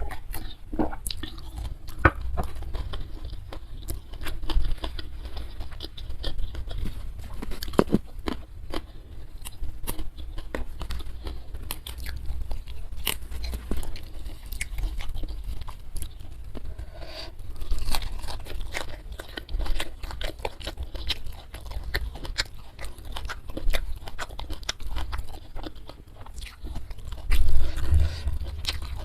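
Close-miked chewing and crunching of food, with many small sharp clicks of bites and mouth sounds throughout.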